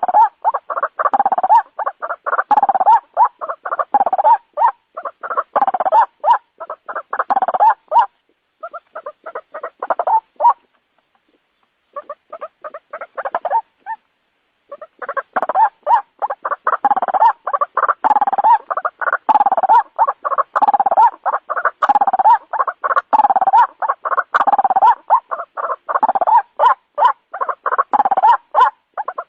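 White-breasted waterhen calling: a long run of rapidly repeated call notes. The calling thins out and stops for a second or two about a third of the way in, then resumes just as densely.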